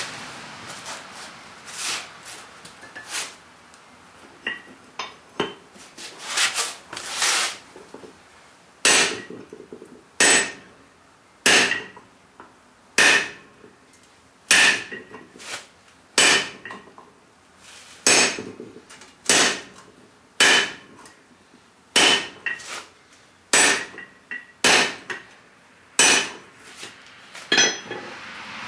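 Hand hammer blows on hot steel set in a fullering tool on an anvil, each with a short metallic ring. A few lighter, irregular taps come first; then from about a third of the way in there is a steady run of about fifteen blows, roughly one every second and a half.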